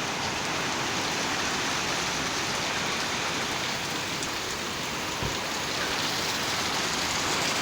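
Heavy rain falling steadily in a storm, an even, unbroken hiss of rain.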